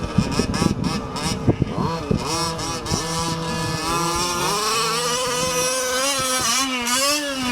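Small two-stroke gas engines of Losi FIVE-T 1/5-scale RC trucks revving up and down, with a few sharp knocks in the first two seconds.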